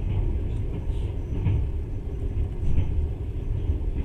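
Passenger train in motion, heard from on board: a steady low rumble.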